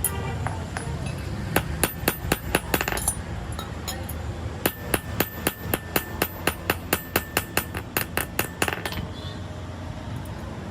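Hand hammer striking metal: a quick burst of about six blows, then after a pause a steady run of about four blows a second lasting some four seconds, each blow with a short metallic ring.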